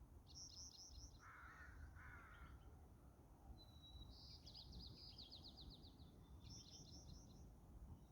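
Faint birdsong: a small songbird sings a rapid high trilled phrase three times, once opening with a thin held whistle. About a second in, two short harsh calls come from another bird, over a low background rumble.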